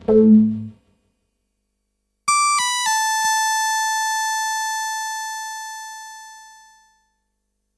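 Synthesizer: a short low note closes the playing. After a pause, a bright single tone steps down in pitch three times within a second, then fades slowly over about four seconds.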